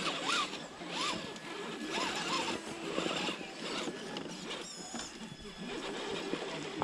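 Small electric motors of RC rock crawler trucks whining in short, repeated bursts as they are driven over rocks.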